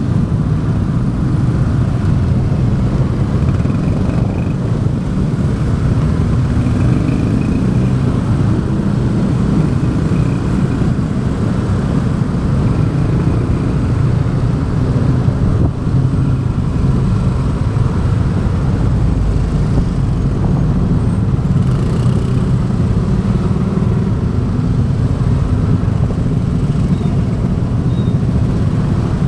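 Motorbike riding along at a steady speed: its engine and road noise, heard as a low, even sound.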